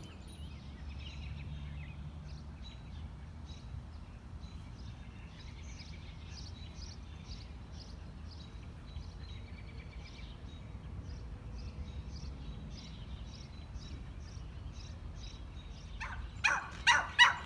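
Quiet outdoor background with a faint high chirp repeating about twice a second, then a dog barking several times in quick succession near the end.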